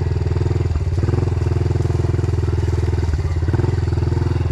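Dirt bike engine running steadily at low-to-mid revs, with brief small changes in revs about a second in and again after three seconds.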